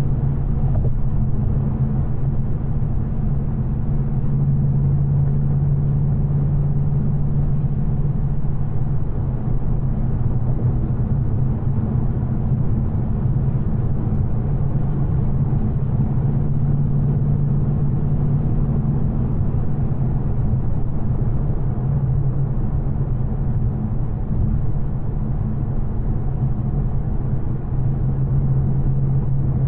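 2024 Ford Mustang GT's 5.0-litre V8, stock without headers, running at a steady cruise with a constant low engine drone and road rumble.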